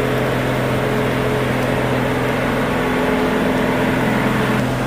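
Dump truck engine running steadily at an even speed, with a constant low hum.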